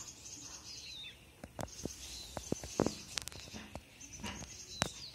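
Small birds chirping faintly, with short high calls and scattered sharp clicks.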